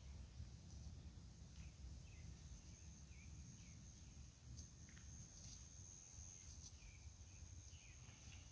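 Faint outdoor ambience: a steady high insect trill, typical of crickets, with short faint chirps about once a second over a low rumble.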